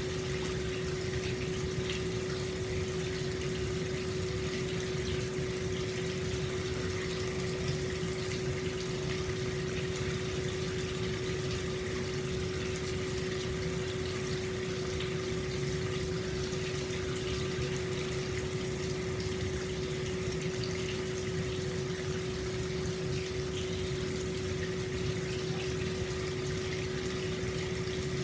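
Hot spring water pouring steadily into an open-air stone bath, a constant rushing splash, with a steady low hum underneath.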